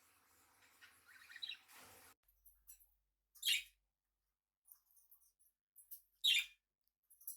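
Pet budgerigars chirping: faint twittering at first, then two loud, short, high chirps about three seconds apart, with a few soft ticks between them.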